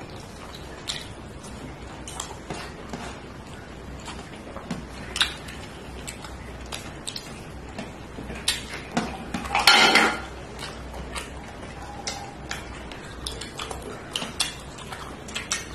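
Clinks and scrapes of eating from a plate, short and scattered, with a louder cluster of clatter about ten seconds in.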